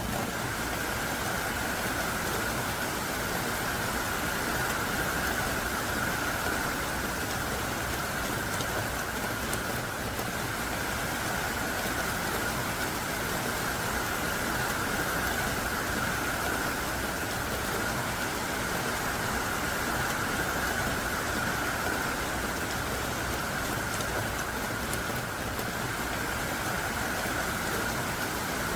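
Heavy, driving downpour falling steadily: an even, dense hiss of rain with faint scattered drop ticks.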